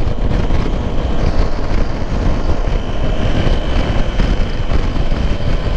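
Motorcycle riding at road speed: steady wind rush over the camera microphone with the engine running underneath.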